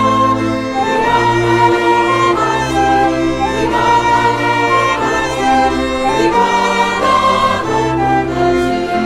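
Instrumental music: a bowed string melody, violin-like, sliding between held notes over a string section and a sustained bass line.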